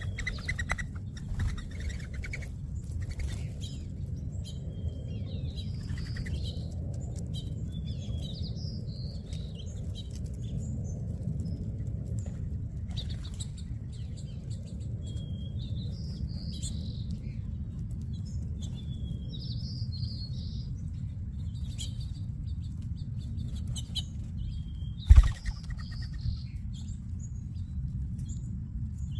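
Small songbirds at a backyard feeder chirping and twittering in short scattered calls, with wings fluttering now and then, over a steady low rumble. A single sharp thump near the end is the loudest sound.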